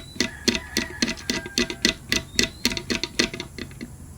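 Rapid, irregular clicking and tapping of small hard parts, about three or four clicks a second, as a loose piece is worked back into place inside an electric kettle.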